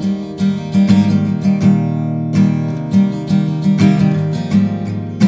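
Acoustic guitar strummed in a steady rhythm, ringing chords with no singing.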